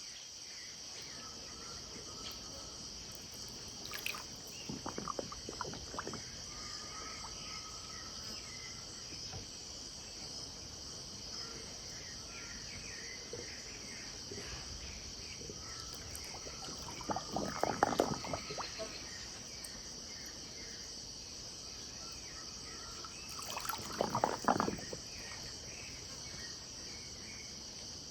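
Riverbank evening ambience: a steady high-pitched insect chorus, with short level-pitched calls every few seconds. River water splashes and trickles close to the microphone three times, loudest about two-thirds of the way in.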